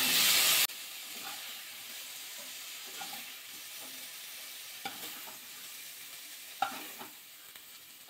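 Cauliflower florets sizzling in hot mustard oil in a non-stick kadai while a spatula stirs and scoops them out. The sizzle is loud at first, drops suddenly under a second in to a steady fainter hiss, and the spatula knocks against the pan a few times near the end.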